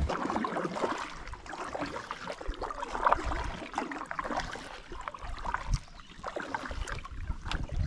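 Shallow creek water trickling and gurgling around a kayak, with scattered small splashes and knocks.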